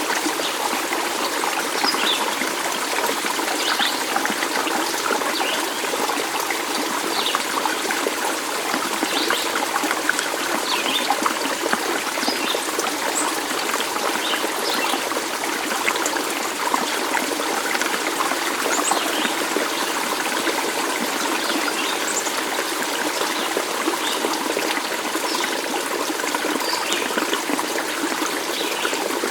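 Running water of a stream, trickling and splashing steadily without pause, with many small high plinks scattered through it.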